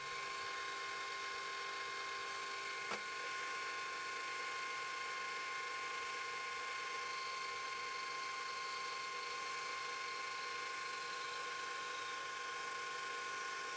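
Metal lathe running steadily, a whine of several steady tones over a hiss, with a single click about three seconds in.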